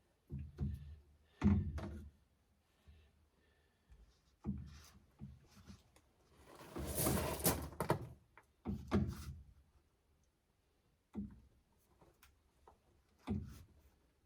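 Irregular hollow knocks and thuds of drain pipe and fittings being handled and set down, with a rasping scrape lasting about a second and a half near the middle.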